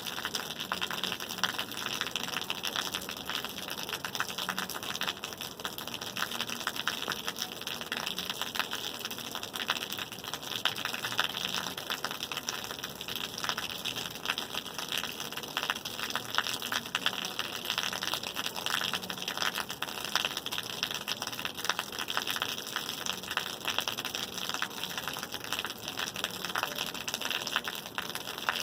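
Steady rain falling: a dense, even patter of drops that keeps up without a break.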